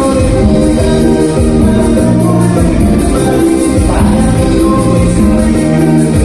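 Loud live band music with singing.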